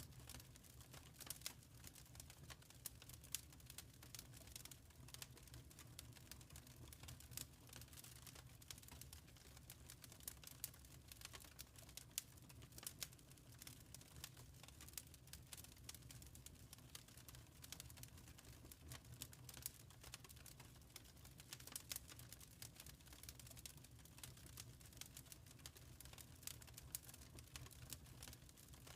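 Faint wood fire crackling, with many small irregular pops over a low steady rumble of the burning fire.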